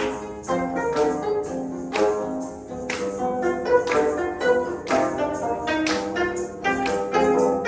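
Live instrumental ensemble playing a melodic piece, with sustained pitched notes over a regular beat of bright percussion strikes.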